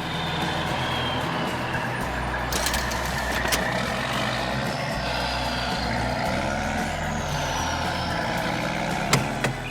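Heavy truck engine running steadily, with a faint high whine sliding in pitch and two sharp clicks near the end.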